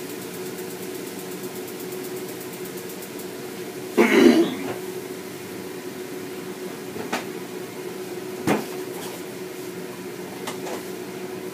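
Steady electric hum of a kitchen appliance running, with a loud clatter of cookware about four seconds in and a few light knocks after it.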